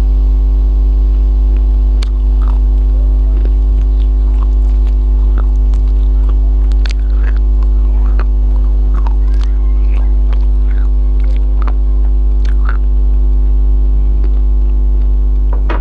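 Loud, steady electrical hum with a stack of overtones throughout, over scattered small clicks and wet smacks of someone eating and chewing food.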